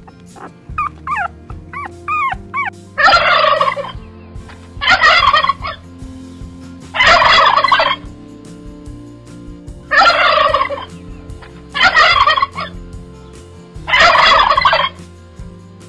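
Domestic fowl calling: a few short rising-and-falling chirps at first, then six loud, harsh rattling calls, each under a second, about two seconds apart.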